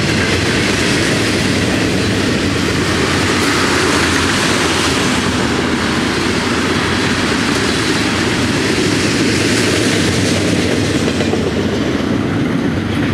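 Freight train cars of a Florida East Coast Railway train rolling past on the rails: a steady, loud noise of steel wheels running over the track. The higher part of the noise fades near the end as the last cars go by.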